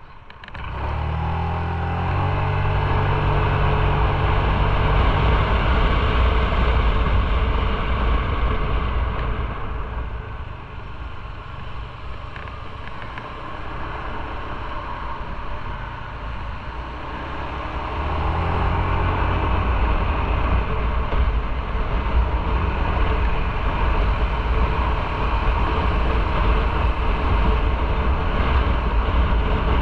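Motorcycle engine running on the road with wind and road noise. It pulls strongly at the start, eases off for several seconds in the middle, then pulls again and holds for the rest.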